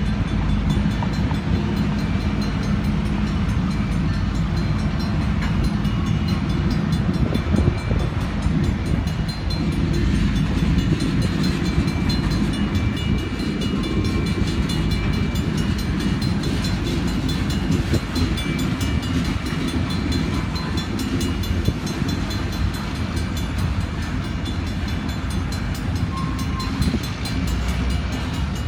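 Union Pacific freight train of covered hopper cars rolling past: a steady, loud rumble of steel wheels on the rails.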